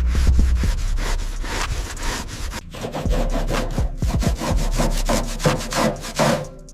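Quick, repeated scrubbing strokes of a brush or pad rubbed back and forth over a surface during cleaning.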